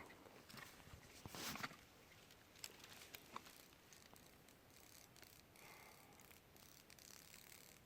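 Near silence: faint outdoor hiss with a soft rustle about one and a half seconds in and a few small clicks.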